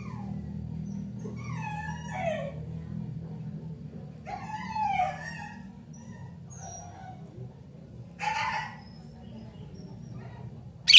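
Sooty-headed bulbul calling: three short bouts of liquid notes that bend up and down in pitch, a few seconds apart, over a low steady hum.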